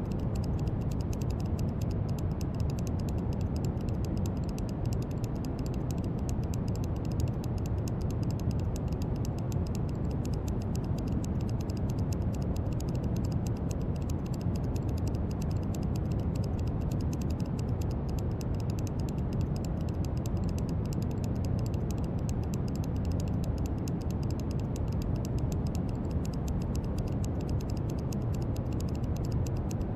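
Steady brown noise: a deep, even rumbling hiss, strongest in the low end.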